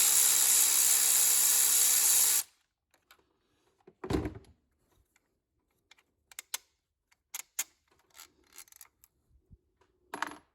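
Cordless electric ratchet running for about two and a half seconds, spinning out one of the 6mm bolts with 8mm heads that hold the plastic throttle body housing, then scattered clicks and a knock of the ratchet and bolts being handled.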